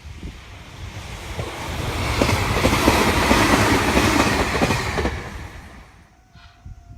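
A Meitetsu electric train passing at speed, its wheels clacking over the rail joints. The sound swells over about two seconds, holds, then fades away about five seconds in.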